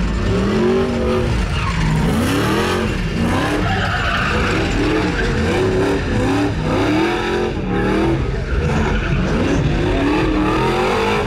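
Pickup truck doing a burnout: its engine revs up and down over and over while the tyres squeal and spin.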